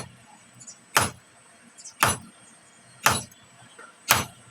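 Blacksmith's hammer striking metal on an anvil in a steady rhythm, about one sharp blow a second, five blows in all, with faint light taps between.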